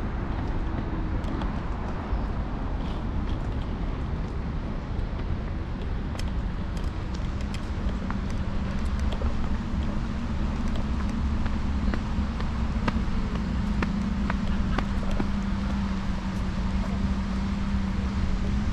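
City street traffic heard while riding, with a heavy low rumble of wind on the microphone. A steady low hum comes in about seven seconds in and holds, with a few faint ticks.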